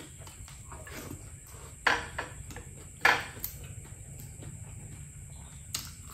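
Close-up eating sounds: chewing and lip-smacking clicks, with two louder sharp sounds about two and three seconds in. A steady low hum runs underneath.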